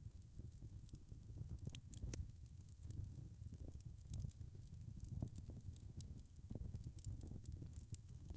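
Wood fire crackling: scattered sharp pops and snaps over a low, continuous rumble of burning.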